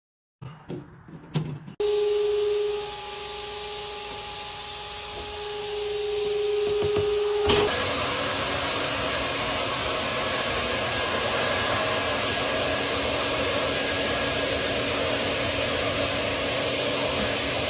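A vacuum motor starts with a steady whine about two seconds in. About eight seconds in it changes to a louder, even rush of air that keeps going.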